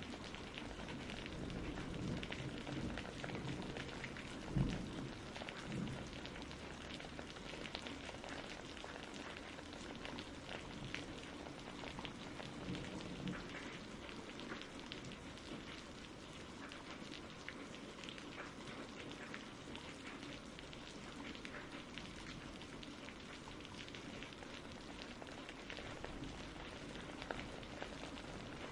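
Steady rain, with many individual drops ticking through the hiss. A brief low rumble comes about four and a half seconds in.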